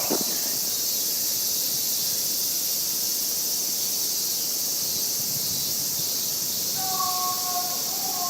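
A steady, high-pitched chorus of insects buzzing in the trees, typical of cicadas. Near the end, a wavering pitched tone begins faintly in the distance.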